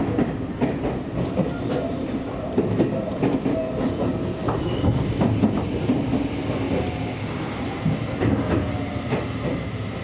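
Seibu Railway electric commuter train: a low, steady rumble with irregular clanks and knocks.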